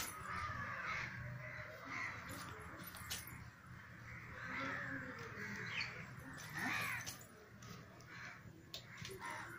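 Harsh, cawing bird calls, repeated several times at irregular intervals over a low steady hum.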